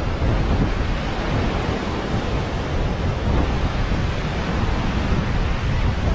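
Ocean surf washing steadily onto the beach, with wind buffeting the microphone in a low, uneven rumble.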